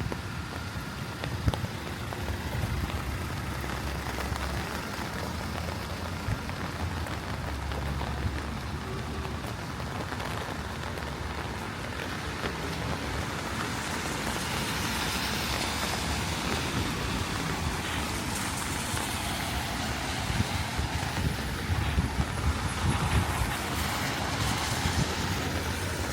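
Steady rain with road traffic on a wet street; a swelling hiss of tyres on the wet road rises about halfway through and fades again near the end.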